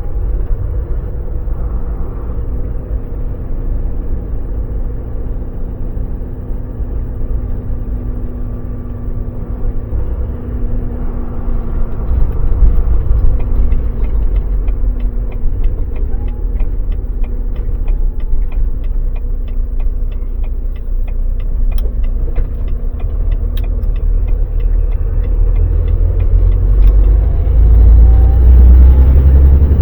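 Volvo VNL semi truck running, heard from inside the cab: a steady low rumble of engine and road noise. A quick, even ticking runs through the middle of the stretch, and the rumble grows louder near the end as the truck pulls harder.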